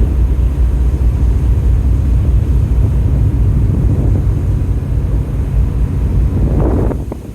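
Strong wind buffeting the microphone, a heavy low rumble that rises and falls with the gusts and drops off briefly near the end.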